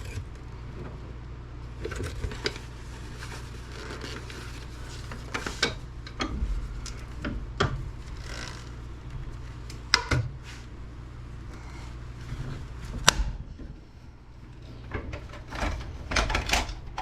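Hard plastic housing of a food processor base being pried and forced apart by hand: irregular clicks, knocks and cracks, with a sharp one about thirteen seconds in, over a steady low hum.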